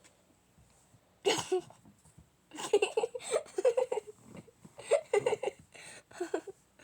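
A person giggling and laughing in several short bursts.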